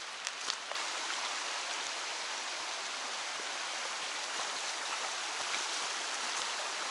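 Steady rush of flowing water from a mountain stream near a small waterfall, with a few faint clicks in the first second.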